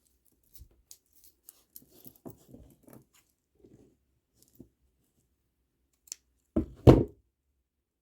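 Scattered soft clicks and rustles of plastic kandi beads and string being handled, then two loud knocks close together near the end.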